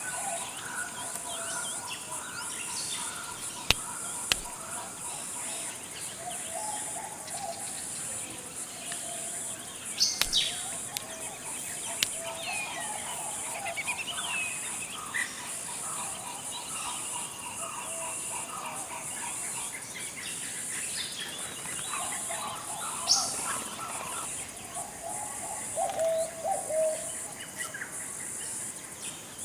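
Several forest birds chirping and calling in short, overlapping phrases over a steady high-pitched hiss, with a few sharp clicks about four and ten seconds in.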